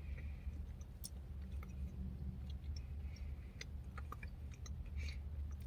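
A person chewing a mouthful of yogurt, oatmeal and pecan parfait, soft and close, with small scattered mouth clicks over a steady low hum.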